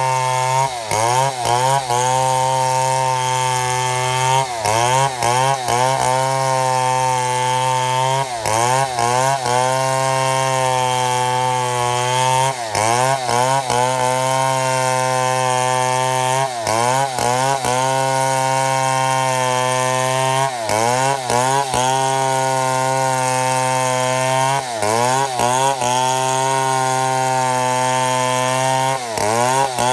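Chainsaw running at full throttle under load, ripping lengthwise through a mahogany log to mill slabs. Its pitch dips briefly and recovers about every four seconds.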